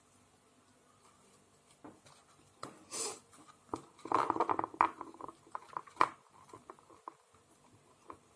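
Tarot cards being handled: shuffled and laid on a table. Soft slaps and flicks start about two seconds in, bunch up most densely around the middle, and are followed by a few sharp taps.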